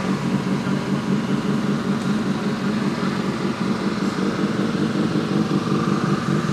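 Suzuki K6-generation 1000 cc inline-four motorcycle engine, fitted in a race car, idling steadily with no revving.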